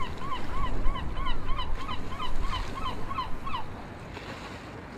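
Seagull calling in a quick series of short, repeated yelping notes, about three a second, which stops a little past halfway through. A steady low wash of noise runs underneath.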